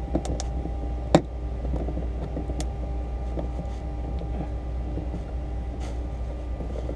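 Wire-out glass removal tool being turned to cut the urethane around a car's quarter glass: a few sharp clicks, the loudest about a second in, over a steady hum.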